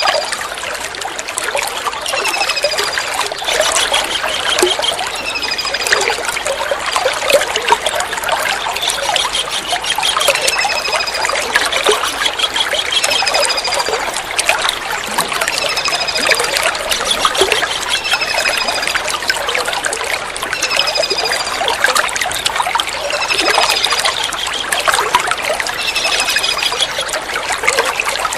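Steady trickling water with a kingfisher's call over it: short, high, falling notes repeated about every two seconds.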